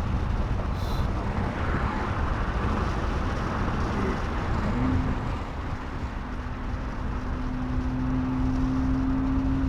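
Nissan GT-R R35's twin-turbo V6 heard from inside the cabin while driving: a steady engine drone over road and tyre rumble. The drone steps up a little in pitch about five seconds in, holds, and eases down near the end.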